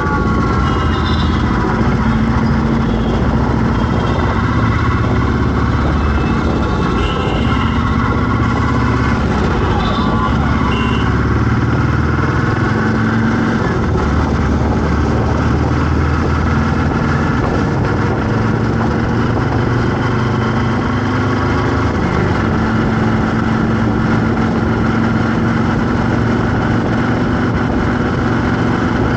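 Road traffic: vehicle engines running and idling in a steady hum, with a few short high-pitched tones in the first half.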